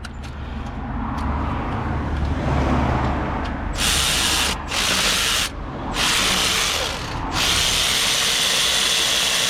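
Power tool on a socket and extension undoing fasteners while the top of the gearbox is stripped. A low motor sound builds over the first few seconds. From about four seconds in comes three loud bursts with short breaks between them, then the tool runs on steadily.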